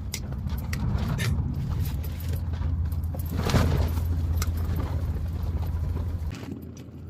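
Strong gusting wind buffeting a small tent and the microphone: a heavy low rumble that drops away about six seconds in, with scattered clicks over it.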